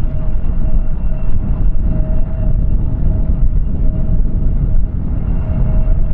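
Strong wind buffeting the microphone in a dense, uneven rumble, over the steady whine of an aircraft engine running on the airfield.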